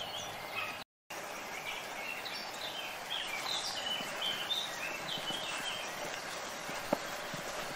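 Small birds singing, a run of short high chirping notes over a steady outdoor hiss, with a brief dropout about a second in and one faint click near the end.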